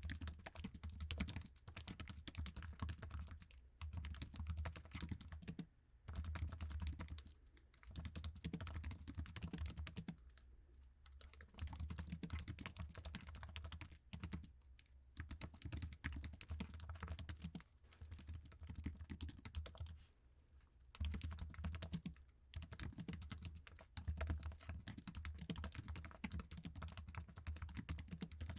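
Typing on an Apple iMac's standard keyboard: fast runs of low-travel key clicks lasting a few seconds each, broken by short pauses.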